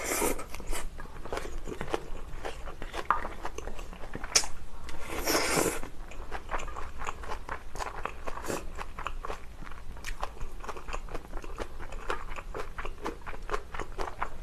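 Close-miked chewing of a mouthful of kimchi fried rice with Spam and flying fish roe, full of small clicks and crackles, with two louder noisy bursts, one near the start and one about five seconds in.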